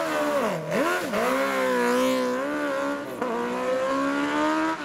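Superbike racing motorcycle engine at high revs. Its pitch drops sharply twice in the first second as the rider shifts or comes off the throttle, then it climbs and holds high, with one brief shift dip about three seconds in before pulling up again.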